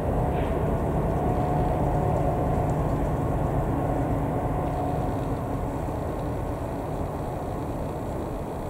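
Diesel freight locomotives running with a steady engine rumble and a held tone, fading slowly.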